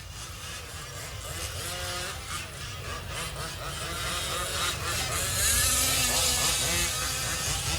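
Several 1/5-scale RC race trucks' small two-stroke petrol engines buzzing and revving as they lap the dirt track, growing slowly louder. A rushing hiss joins in about two-thirds of the way through.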